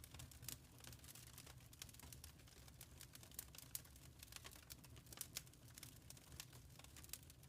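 Wood fire crackling in a fireplace: faint, frequent irregular pops and snaps over a low rumble of the burning fire.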